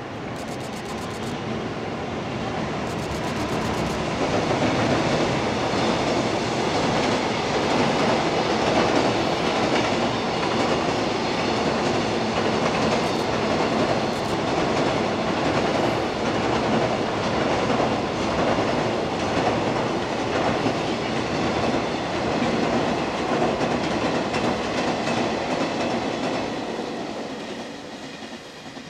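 An electric locomotive hauling a long container freight train across a steel girder railway bridge: the steady noise of wheels on rails builds over the first few seconds, holds, and fades away near the end as the last wagons pass.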